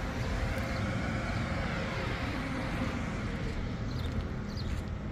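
Outdoor traffic rumble, with a vehicle passing by that swells and fades over the first few seconds.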